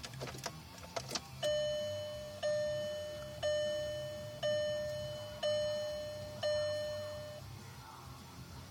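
A few sharp clicks, then a car's dashboard warning chime dinging six times, about once a second, each ding fading before the next, over a faint steady low hum.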